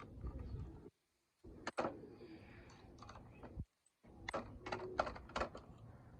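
Toys being handled and loaded: a run of sharp clicks and knocks, cut off abruptly twice.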